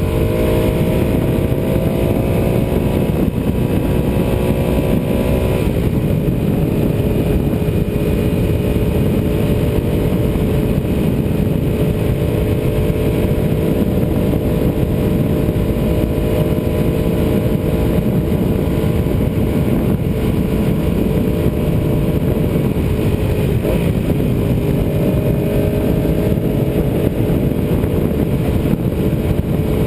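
Ducati 748R's V-twin engine running under way, its pitch drifting slowly, with brief changes in the engine note about six seconds in and again near 24 seconds, over a heavy rushing noise.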